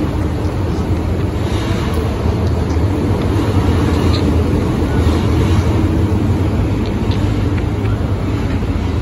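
MTR M-Train electric multiple unit running into the station: a steady low rumble that swells to its loudest about five to six seconds in and then eases, with a few brief high squeaks.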